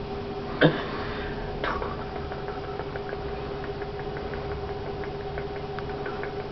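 A budgie pecking and shuffling about, making a sharp click less than a second in, another near two seconds, then a run of faint little ticks and scratches. A steady hum runs underneath.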